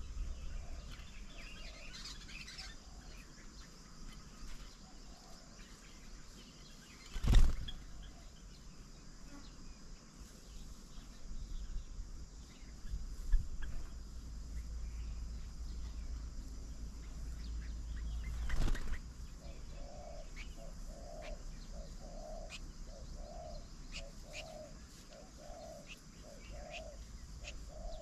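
Birds at a garden bird table: scattered short chirps and calls, two loud wing flutters, and a low call repeated about one and a half times a second in the last third.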